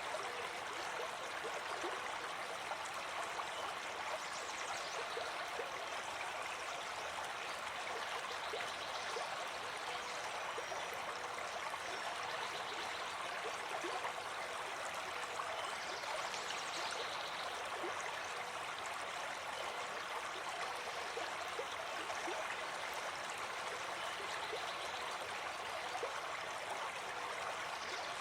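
Running water flowing steadily, a continuous splashing rush with small bubbling flecks and no change.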